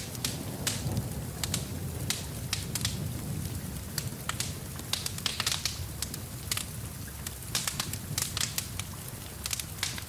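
Wood fire in a fireplace crackling, with sharp irregular pops over a low rumble of the flames. Steady rain falls in the background.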